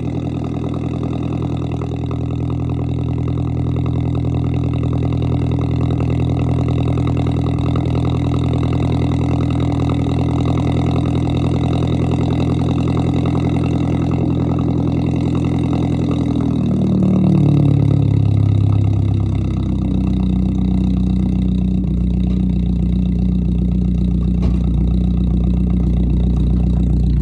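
Car engine running steadily under way; about 17 s in its pitch drops over a couple of seconds as the revs fall, then it settles into a steady, lower drone.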